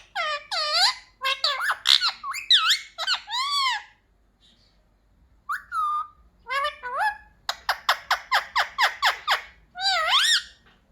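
Indian ringneck parrot calling: a string of loud squawks and chattering calls that bend up and down in pitch, with a fast run of short repeated notes about three quarters of the way through.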